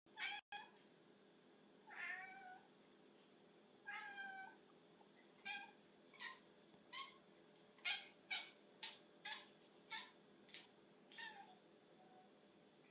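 Domestic cat making a series of short, odd meow-like calls while fixed on a tiny bug: two longer calls, then about ten quick ones coming closer together.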